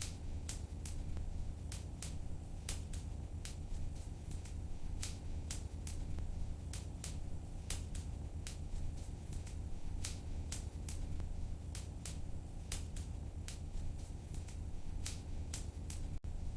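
Fireplace fire crackling, with irregular sharp pops and snaps several times a second over a steady low rumble of the flames.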